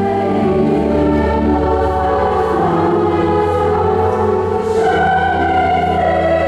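A choir singing slow, held chords over a sustained deep bass accompaniment.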